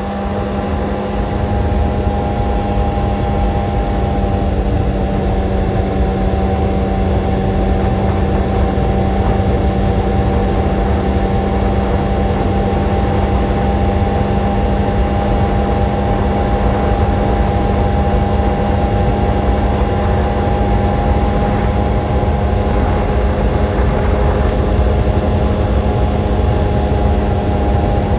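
Kawasaki sport motorcycle engine running at a steady, unchanging speed, with low wind rumble on the microphone.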